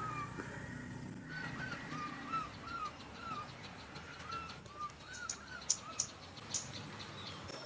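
A run of short, arched animal calls, repeated about two a second, with scattered sharp clicks.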